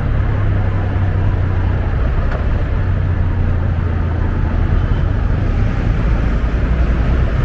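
Honda Scoopy 125 scooter's single-cylinder engine running while riding, with a steady rush of wind and road noise over it. The low engine note drops a little about halfway through.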